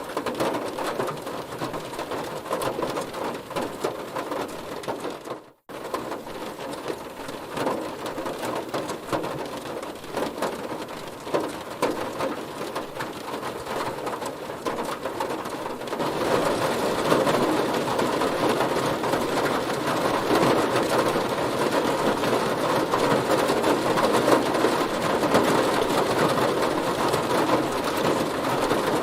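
Heavy rain drumming steadily on a car's body. The sound drops out for a moment about five seconds in, and the rain grows heavier and louder about halfway through.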